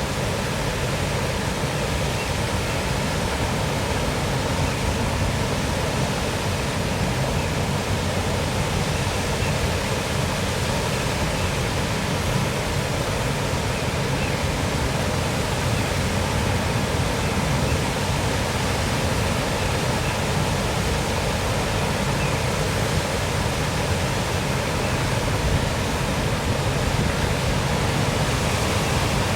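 Small waterfall splashing steadily, an even rush of falling water.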